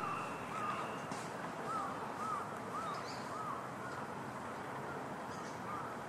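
A bird calling: a run of about seven short, arched whistled notes, roughly two a second, then a few more starting again near the end.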